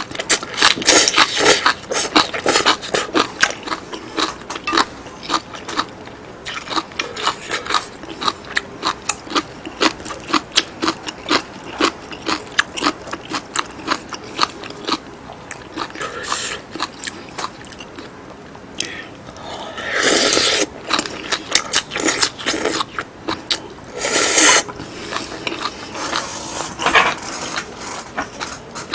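Close-miked wet chewing and lip-smacking as abalone and green onion kimchi are eaten, a dense run of quick smacking clicks, with two longer, louder noisy bursts about 20 and 24 seconds in.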